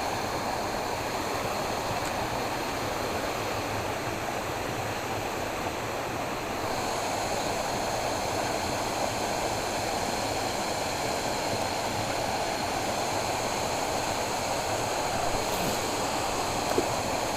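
Steady rushing of flowing water, with a small knock near the end.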